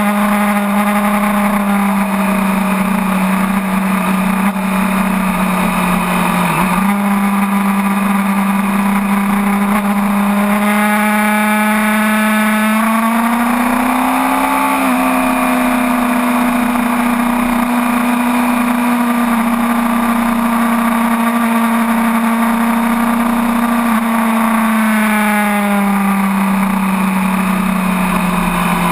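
Sport bike's inline-four engine running at steady high revs under wind rush, heard from a camera on the fairing. The revs climb about halfway through, hold, then ease back down a few seconds before the end.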